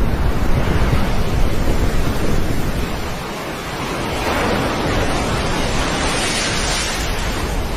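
Wind rumbling on the microphone over a steady rushing noise; about four seconds in, a brighter rushing hiss swells and then fades.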